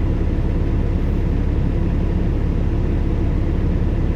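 Semi-truck's diesel engine running steadily, a constant low rumble heard inside the cab.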